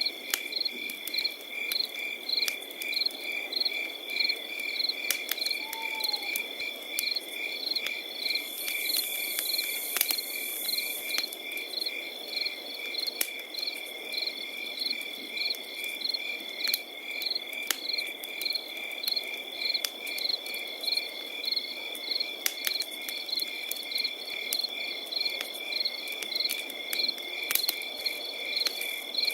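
Crickets chirping in a steady chorus, one a continuous high trill and others pulsing in quick, regular chirps, over a campfire crackling with frequent sharp pops.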